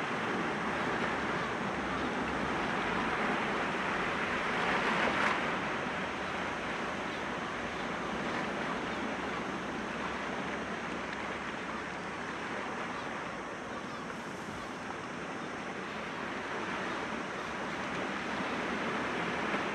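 Sea waves washing against rocks, a continuous surf rush that swells to a peak about five seconds in, eases off, and builds again toward the end.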